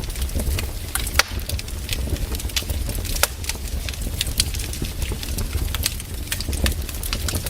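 Wood fire crackling and popping: irregular sharp snaps, a few louder than the rest, over a steady low rumble.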